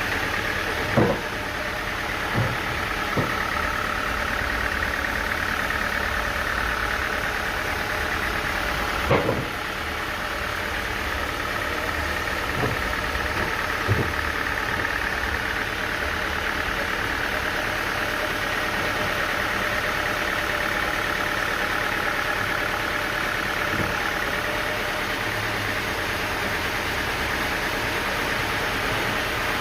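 Sawmill machinery running steadily, its engine noise carrying a high, slowly wavering hum. A handful of sharp knocks fall in the first fourteen seconds, the loudest about nine seconds in.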